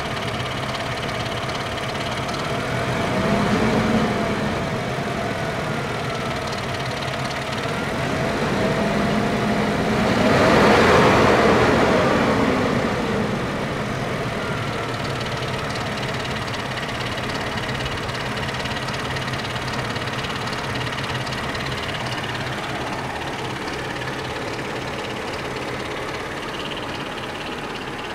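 Mercedes-Benz W210 E240's M112 V6 petrol engine idling steadily, revved twice: a short blip, then a longer, higher rev in the middle that rises and falls back to idle.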